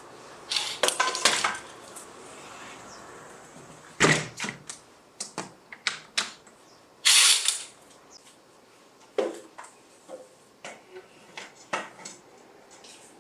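Dishes and cutlery clinking and knocking as they are handled, in irregular clusters of sharp clicks, with a longer scraping or rustling burst about seven seconds in.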